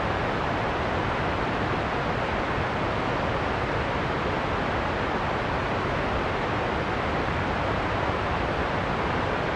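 Steady heavy rain and wind: an even, unbroken rushing noise with a deep low end and no separate drops or gusts standing out.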